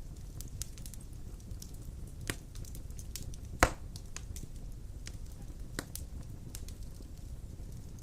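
Wood fire crackling in a fireplace: scattered sharp snaps over a low steady rumble of the flames, with one loud pop a little past the halfway point.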